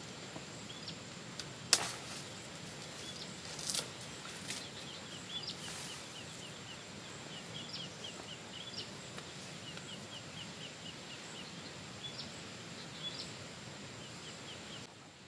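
Outdoor ambience with a small bird chirping a long run of short, high, falling notes, and a few sharp clicks and snaps as gear is handled in the undergrowth; the loudest snap comes about two seconds in, another about two seconds later.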